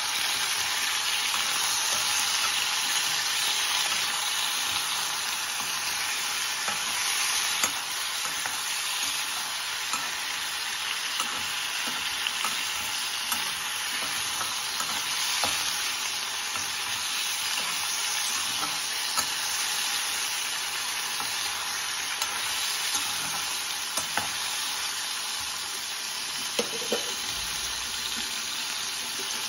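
Vegetable slices sizzling in a hot kadai with a steady hiss, while a steel spatula scrapes and clicks against the pan now and then as they are stirred.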